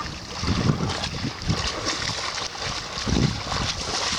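Sea waves washing against the shore, with wind gusting on the microphone in a few low buffets.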